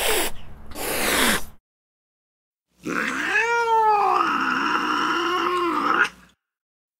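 Recorded cat yowls played back from a cat-sounds app. A short call falling in pitch, with a second one right after it, ends about a second and a half in. After a pause comes one long yowl of about three and a half seconds that wavers up and down in pitch and cuts off abruptly.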